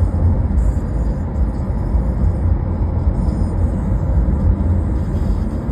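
Steady rumble of road and engine noise heard from inside a moving car's cabin, strongest in the low bass.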